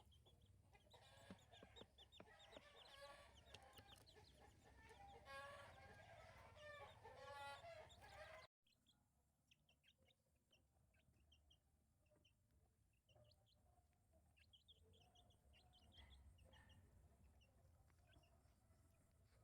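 Chicken clucking and chirping, louder and denser in the first half, then breaking off suddenly about eight and a half seconds in, with fainter, scattered chirps after the break.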